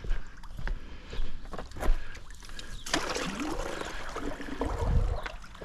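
Pool water sloshing and splashing as a skimmer net on a pole is swept along the waterline tile, with a few light knocks at first and the loudest splashing from about three seconds in.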